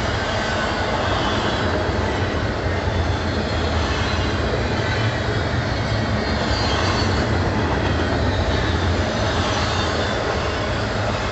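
Double-stack intermodal container well cars rolling past: the steady rumble and rattle of steel wheels on rail, unbroken and even in loudness.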